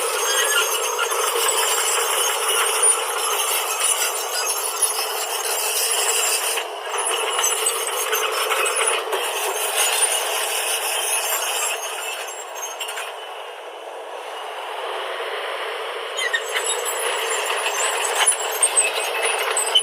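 Backhoe loader at work: engine running with dense metallic clinking and rattling. It eases off for a few seconds past the middle, then picks up again.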